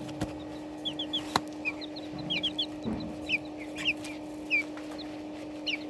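Young chicks peeping: many short, high, falling chirps, often in twos and threes, over a steady low hum. One sharp tick about a second and a half in.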